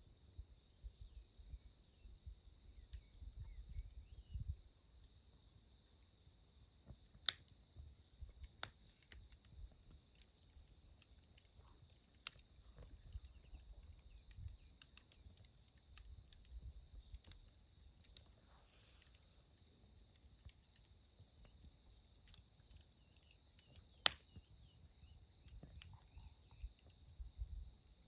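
Faint, steady high-pitched chirring of insects, with scattered sharp pops and cracks from a wood campfire; two cracks stand out, about seven seconds in and a few seconds before the end.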